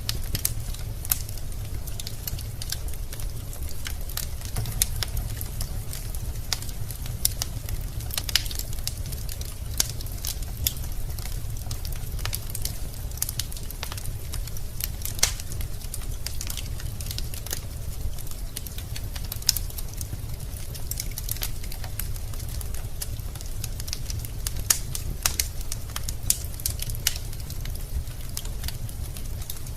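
Wood fire in a fireplace burning steadily: a low rumble under many irregular sharp crackles and pops of the burning logs.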